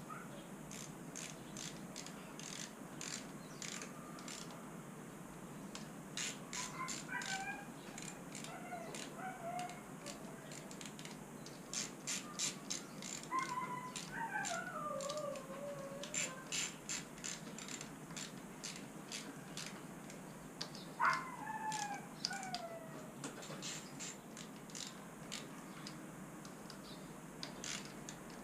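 Ratchet wrench clicking in short runs while engine bolts are worked on, with a bird giving a falling call a few times in the background.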